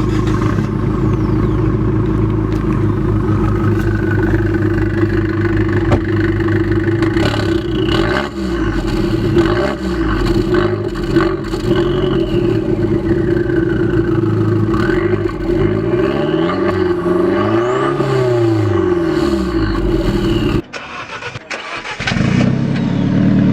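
Four-cylinder car engine running, its note rising and falling with the revs. About three-quarters of the way through the sound cuts out briefly, and another engine comes in near the end.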